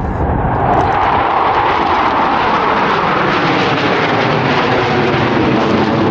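Jet noise from Blue Angels Boeing F/A-18 Super Hornets flying past. It swells up within the first second and stays loud, with a pitch that falls slowly as the jets go by.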